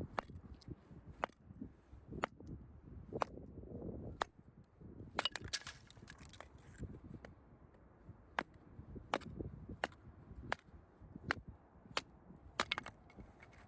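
Sharp dry snaps or clicks, about one a second, over low rustling. About five to seven seconds in there is a denser stretch of crackling.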